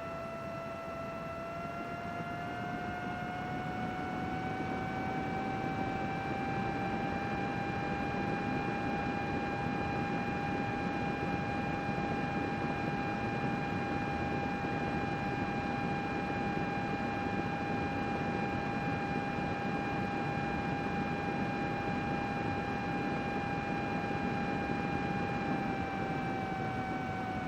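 Computer cooling fan running: a steady rush of air with a whine whose pitch rises over the first several seconds as the fan speeds up, holds, then drops slightly near the end as it slows.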